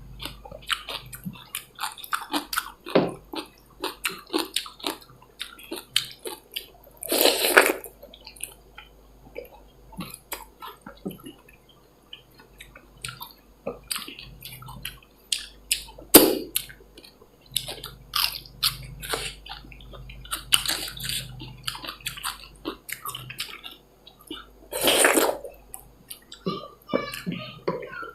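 Close-miked eating of dal bhat with chicken: chewing and wet smacking mouth sounds in quick, uneven clicks, broken three times by a longer, louder wet noise about half a second long.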